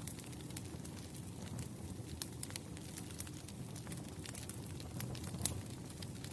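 Campfire of burning wood logs crackling: a steady low rumble of the flames with irregular sharp pops and snaps, one louder pop about five and a half seconds in.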